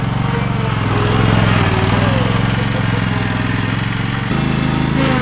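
Zero-turn riding mower's engine running steadily, its note changing abruptly about four seconds in.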